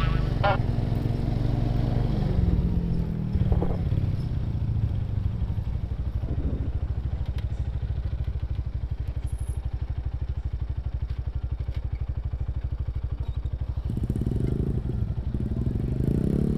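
Motorcycle engine running: the revs fall to a steady, pulsing idle about two seconds in, hold there, then rise again from about fourteen seconds in.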